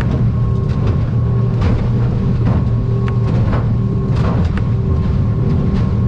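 Outboard motor of an aluminium boat running steadily under way, with a low drone and a thin steady whine. Frequent sharp knocks and slaps sound through it as the hull bounces over chop and swell.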